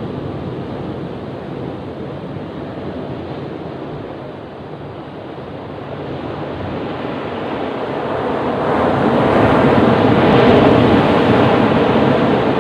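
Ocean surf washing on a beach: a steady rumbling wash of waves that builds in the second half into a louder breaking wave.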